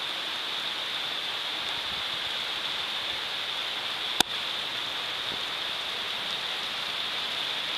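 Rain falling steadily, a continuous hiss, with one sharp click a little past the middle.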